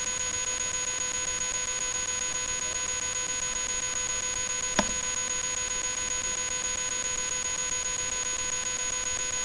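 Steady, unchanging electrical whine with a row of higher overtones, the constant interference tone of a webcam microphone recording. A single faint click comes about halfway through.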